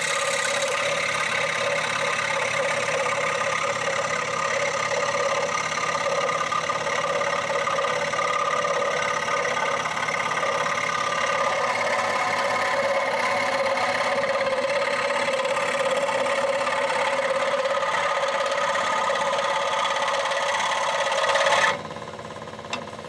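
Workzone benchtop scroll saw running at a raised speed setting, its motor and reciprocating blade giving a steady buzzing hum. It cuts off suddenly near the end.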